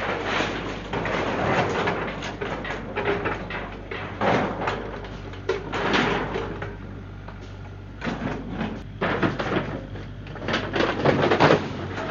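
Irregular knocks, scrapes and clatter of demolition debris and scrap being handled, over a steady low hum.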